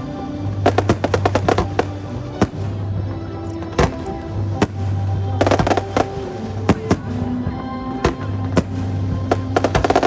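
Aerial fireworks bursting: single sharp bangs and several quick volleys of rapid crackling pops, with music playing underneath.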